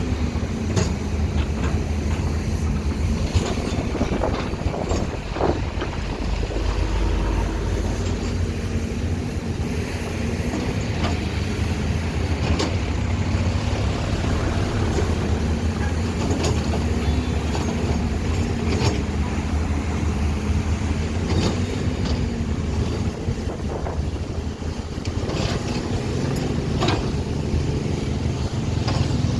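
Excavator diesel engine running steadily, with a slightly wavering hum and scattered sharp clanks and knocks.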